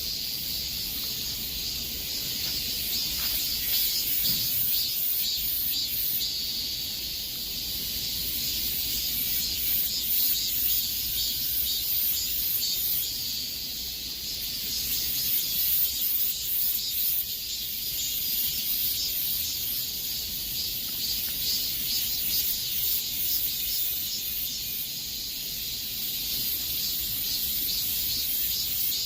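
Cicadas in chorus: a steady high-pitched buzzing drone with a fast pulsing shimmer, gently swelling and easing in loudness.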